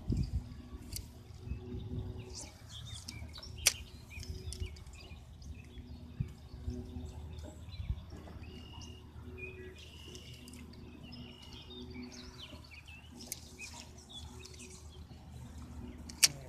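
Small songbirds chirping and calling, many short high notes scattered throughout, over a low rumble. A sharp click sounds about four seconds in and a louder one near the end.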